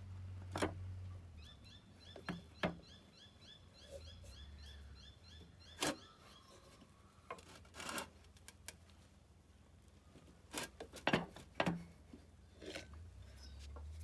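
Scattered metal clicks and knocks of hand tools on a small engine while the flywheel is being worked loose, in irregular single strikes with a quick cluster around 11 seconds in. A bird chirps rapidly in the background for a few seconds in the first half.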